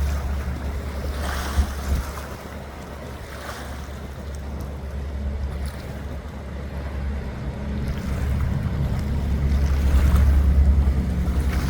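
Wind buffeting the microphone: a low rumble that eases off in the middle and swells again near the end.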